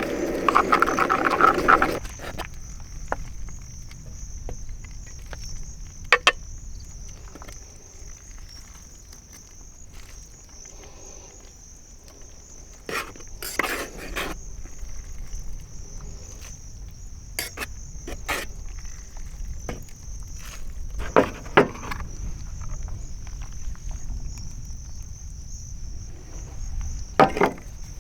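Frogs croaking for the first two seconds, then a steady high-pitched insect trill, cricket-like, with scattered knocks and clicks.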